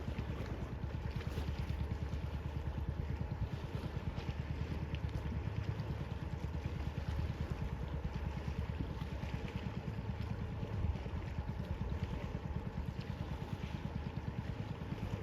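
A steady, low engine throb with fast, even pulses and a faint hiss of wind or water over it.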